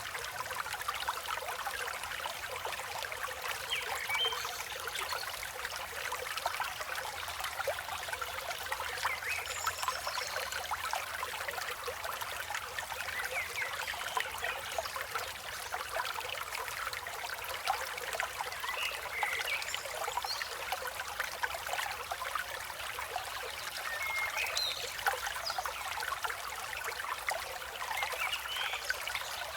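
River water flowing and trickling steadily, with a few short bird chirps scattered through it.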